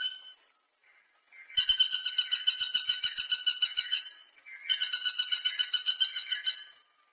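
Woodpecker calling: two runs of rapid repeated notes, about six a second, each lasting about two seconds with a short gap between them.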